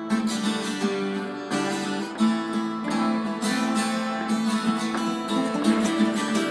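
Acoustic guitar played in repeated strums, ringing chords at an even, moderate level.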